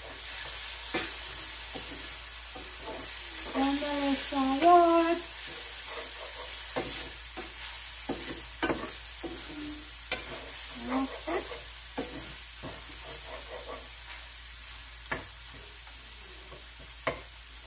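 Sliced mushrooms sizzling in olive oil in a hot skillet, stirred with a wooden spoon that knocks and scrapes against the pan at irregular intervals. A short vocal sound from a person about four seconds in.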